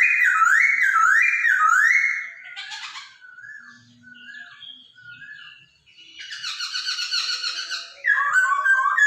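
Hongkong poksay (laughingthrush) song: a run of loud rising whistled notes about twice a second, then softer scattered notes, a rapid chattering phrase about six seconds in, and more repeated whistles near the end.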